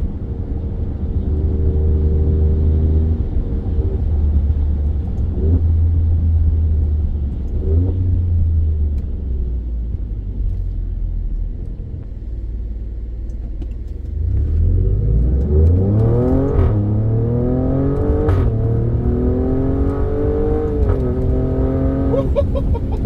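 Alfa Romeo Stelvio Quadrifoglio's twin-turbo 90-degree V6, breathing through a K&N air filter, pulls steadily at low revs and then, about two-thirds of the way in, accelerates hard. The revs climb and drop back at each upshift, about three times.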